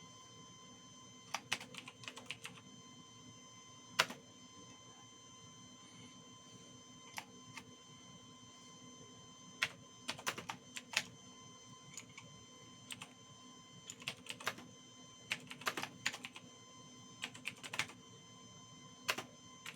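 Computer keyboard keys typed in short irregular clusters of clicks with gaps between, over a faint steady electrical hum.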